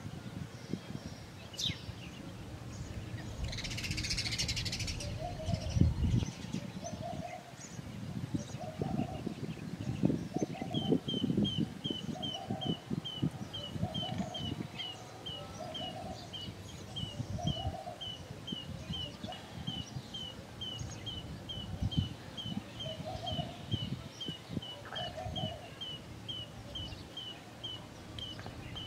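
Wild birds calling: from about a third of the way in, a steady run of short high chirps, two or three a second, with lower hollow notes repeating about once a second. Low gusty wind rumble on the microphone runs underneath.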